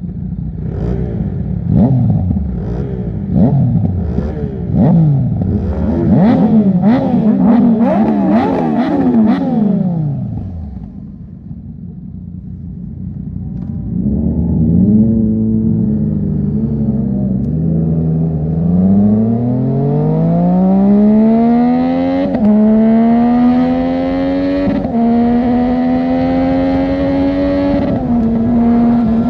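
Sport motorcycles with loud aftermarket exhausts, revving in a series of quick throttle blips. After a short lull, one bike pulls away and accelerates hard, its engine note rising and dropping sharply at each of three upshifts.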